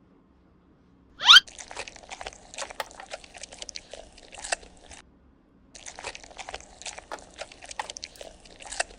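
Plastic toy packaging being handled and unwrapped, with a dense crackling and crinkling in two stretches and a short pause between them. The first stretch opens with a brief, sharp rising sound.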